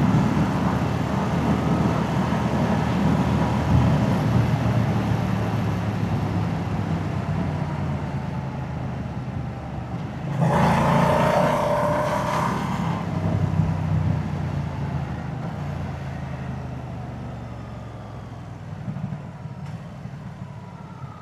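Moto Guzzi V-twin motorcycle engine and exhaust running on the move, slowly fading as the bike eases off. About ten seconds in there is a louder rush of noise with a tone in it, lasting two or three seconds.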